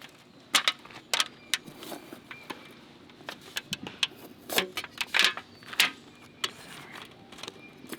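Irregular clatter of small hard objects being handled and knocked together, sharp clicks and knocks coming unevenly, the loudest about half a second in and again around four and a half to six seconds in, typical of rummaging through a container for a spice.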